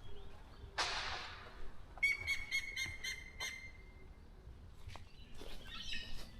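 Wild birds calling in a forest: short low hooting notes, a brief rushing noise about a second in, then a rapid pulsing, chattering call about two seconds in that lasts about a second and a half.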